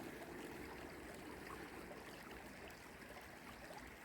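Gentle flow of a shallow, partly frozen creek: a faint, steady trickle of water running.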